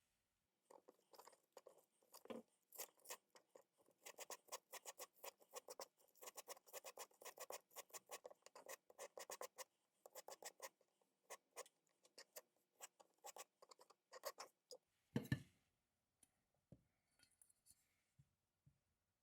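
Rapid run of light clicks and taps from kitchen utensils, several a second, lasting most of the stretch. It ends in one louder knock, followed by a few scattered faint clicks.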